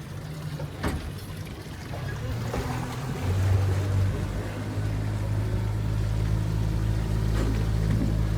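Boat motor running, growing louder about two and three seconds in and then holding a steady hum.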